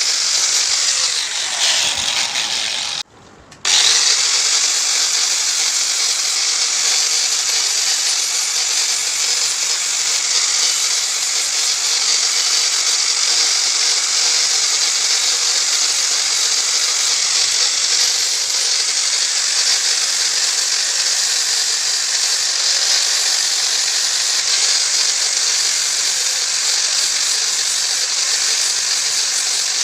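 Handheld power tool running steadily on metal parts, a loud even grinding noise, with a short break about three seconds in before it starts again.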